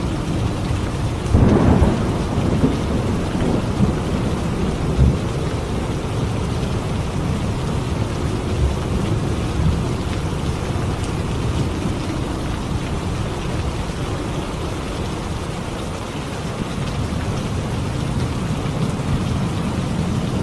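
Steady heavy rain during a thunderstorm. About a second and a half in comes a loud clap of thunder, followed by a few smaller rumbles over the next few seconds before the rain carries on alone.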